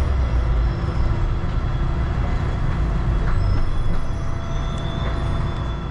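Steady low rumble and hum of an automated airport people-mover train car, with faint steady tones above it and a few light clicks.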